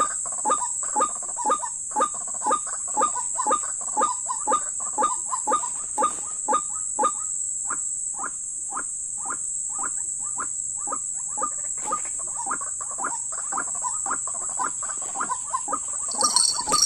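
White-breasted waterhen calling, a croaking 'ruak ruak' repeated quickly and evenly, about two to three calls a second. These are the calls used to lure waterhens to a trap.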